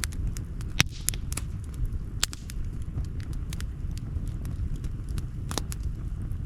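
Wood campfire crackling: scattered sharp pops and snaps, a few louder ones standing out, over a steady low rumble.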